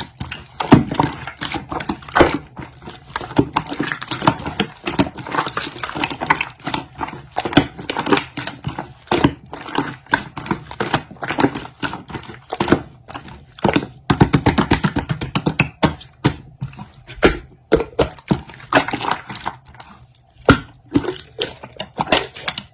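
Slime being squeezed and pressed by hand, making an irregular run of wet clicks and squelches, with a quick rattle of clicks about two-thirds of the way through.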